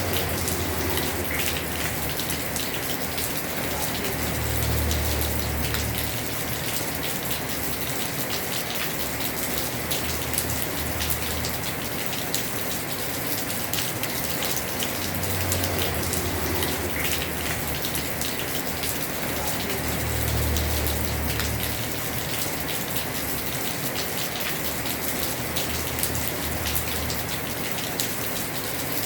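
Heavy rain falling on a house roof: a steady hiss thick with sharp individual drop hits. Under it, a low rumble swells and fades every few seconds.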